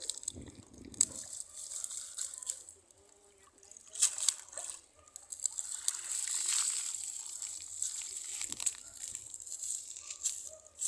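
A cast net being worked in a canal: water sloshing, splashing and trickling, with clicks and rattles. The splashing is loudest a little past halfway.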